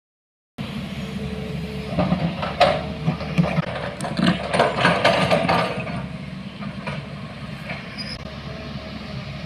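A vehicle engine running with a steady low rumble, starting after a brief silence, with a spell of rattling and knocking from about two to six seconds in.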